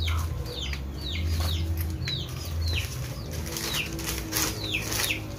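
A bird chirping repeatedly: a string of short high peeps, each falling in pitch, two or three a second, over a steady low rumble.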